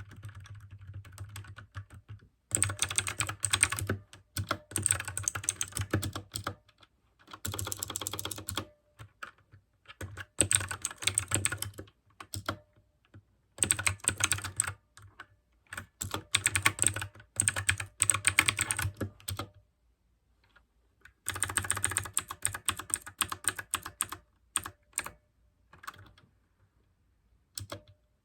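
Fast typing on a mechanical keyboard with clicky blue switches, in runs of rapid keystrokes a second or two long, broken by short pauses and a couple of longer gaps.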